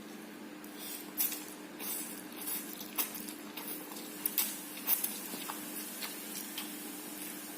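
Close-up eating noises from a person eating spicy fried instant noodles: irregular wet mouth smacks and clicks, with light clinks of a utensil, over a steady low hum.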